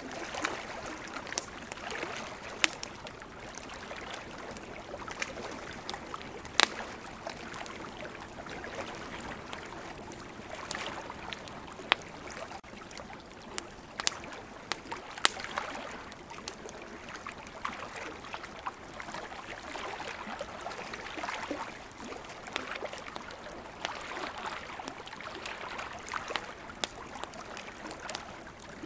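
Wood campfire crackling, with scattered sharp pops, the loudest about 3, 7, 12, 14 and 15 seconds in. The crackling sits over a steady wash of water that swells and eases slowly, typical of surf on the shore.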